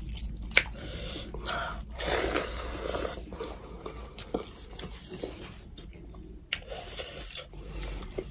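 Two people eating rice, fried chicken and cucumber pickle with their hands close to the microphone: chewing and wet mouth noises with small clicks. There is a sharp click about half a second in and a breathy rush of air for about a second, two seconds in.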